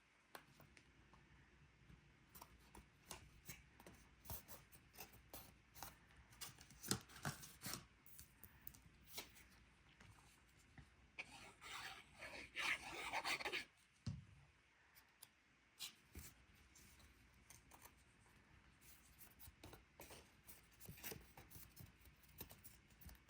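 Faint handling of cardstock paper pieces: scattered light taps and rustles as they are positioned and pressed on, with a longer scratchy rubbing stretch about halfway through that ends in a soft thump.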